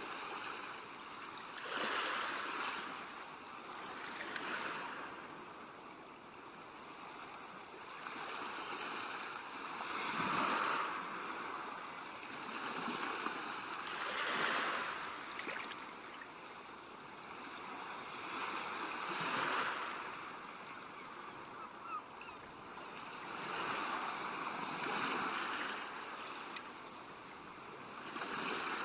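Ocean waves breaking and washing in, the surf swelling and fading every few seconds.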